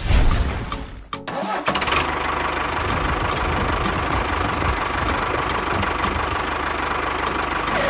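An engine starts with a loud burst, cuts out briefly about a second in, then runs steadily with a constant hum.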